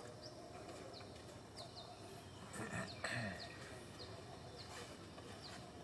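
Faint outdoor background with small birds chirping: short, high, falling chirps repeated every half second or so. A brief louder sound with a rising and falling pitch comes about two and a half seconds in.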